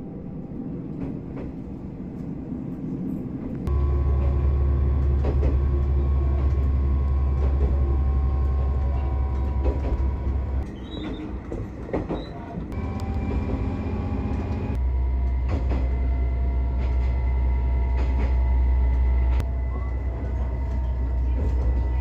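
Local diesel railcar running, a loud steady low engine drone, broken by a few abrupt changes where the sound drops and comes back.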